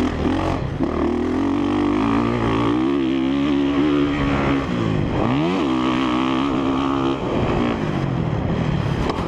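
2017 Honda CRF450R's single-cylinder four-stroke engine under throttle on a motocross track: the pitch climbs and holds high, dips sharply about five seconds in and comes straight back up, then falls away near the end.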